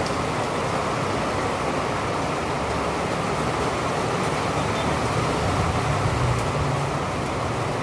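Steady rain hissing, with a low rumble that swells briefly about five to six seconds in.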